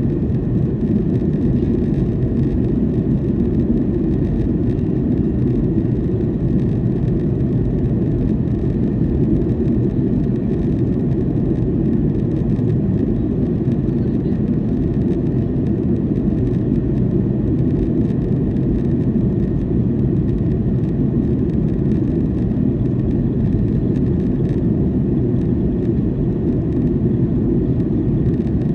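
Cabin noise of a Boeing 737-800 in flight, heard from a window seat: the steady, deep rush of its CFM56-7B engines and the airflow over the fuselage, unchanging throughout.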